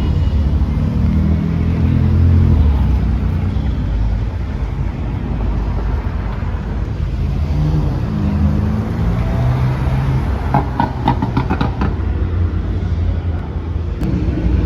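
Car engine running with a deep exhaust note, its revs rising and falling a couple of times. There are a few short clicks about two-thirds of the way through.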